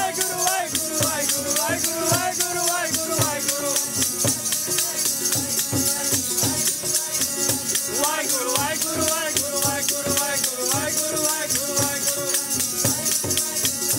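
Sikh kirtan: devotional singing, the voice gliding between held notes over sustained instrumental tones, with a fast, even beat of jingling percussion throughout.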